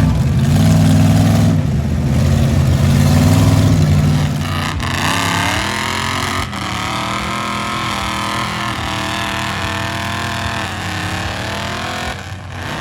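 A big truck engine revving in two long surges, then rising in pitch and holding high revs with slight wavering.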